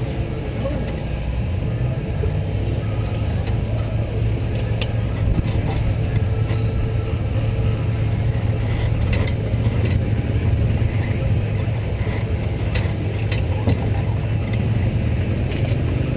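Sport modified race car's V8 engine idling steadily, heard from inside the cockpit, with a few light clicks.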